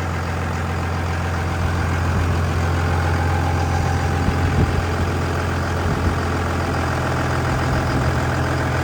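Second-generation 5.9 Cummins inline-six turbo diesel idling steadily.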